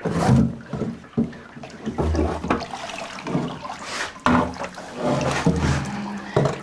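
Water splashing and pouring in uneven surges, with a few knocks.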